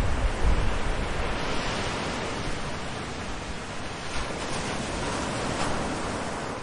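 Ocean waves washing onto a beach: a steady, even rush of surf that slowly eases in level.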